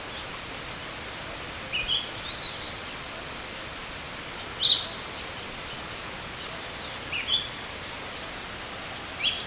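Pied thrush calling: four short, high-pitched phrases of a few notes, each with a steep downward-sweeping whistle, repeated every two to three seconds over a steady background hiss.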